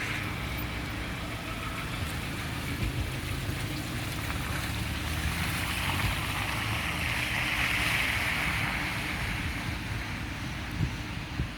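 A car driving on a snow-covered road, heard from inside the cabin. Engine and tyres make a steady low rumble, and a hiss of tyres through snow swells about halfway through, then eases near the end.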